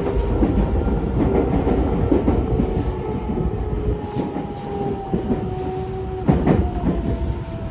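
Tokyo Metro 05 series train braking under its Mitsubishi IGBT-VVVF inverter, whose steady whine tones slowly fall in pitch as it slows. Underneath are the rumble and clatter of wheels over rail joints, with a few loud knocks about six seconds in.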